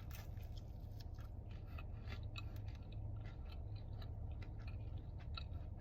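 Close-miked chewing of a chicken pesto flatbread: a steady scatter of small, irregular mouth clicks.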